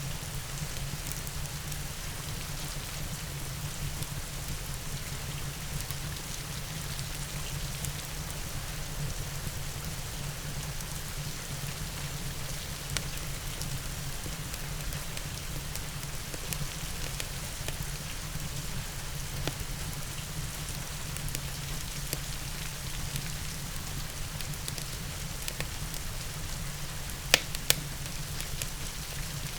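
Steady rain mixed with a crackling fireplace: an even hiss of rain with scattered small pops, and two sharper pops near the end.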